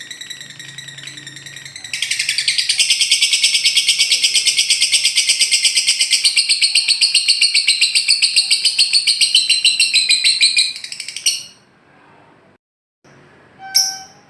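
Lovebird's ngekek song: a long, rapid rattling trill of many notes a second, softer at first and then loud from about two seconds in, stopping abruptly about eleven seconds in.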